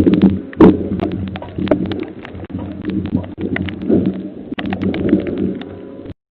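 McNeilus ZR rear-loader garbage truck running with a steady low hum, overlaid by many sharp cracks and knocks, one loud knock about half a second in.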